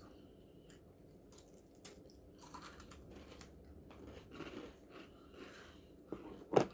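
Close-up crunching and chewing of thin, crispy salted caramel brownie brittle, in scattered bites, with one sharper crack or click near the end.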